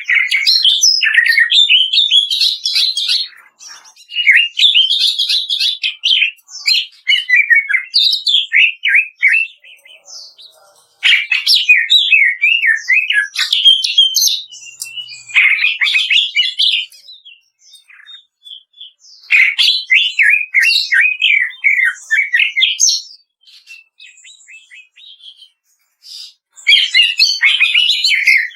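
Cucak ijo (green leafbird) singing its rapid crackling 'kretekan' song: fast runs of short, sharp notes in phrases a few seconds long, with short pauses between them.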